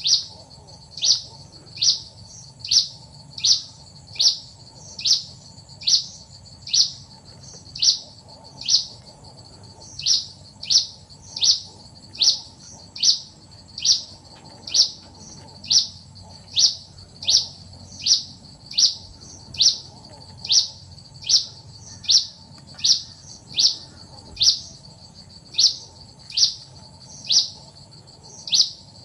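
Plain prinia calling: one short, sharp note that falls in pitch, repeated over and over at about one and a half per second, with a few brief pauses.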